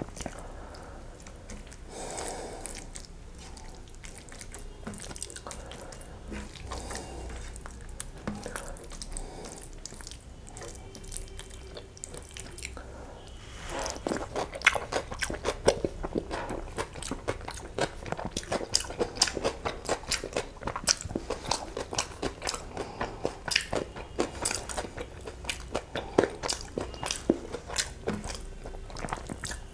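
A big handful of egg biryani with chicken curry eaten by hand, close to a clip-on mic. The first half holds softer sounds of fingers mixing rice on a steel plate. From about halfway on comes loud open-mouthed chewing, with many sharp wet mouth clicks each second.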